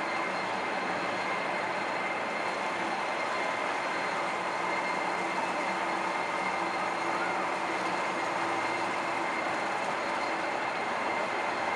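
Steady running noise of a moving vehicle, even throughout, with a few faint steady tones in it.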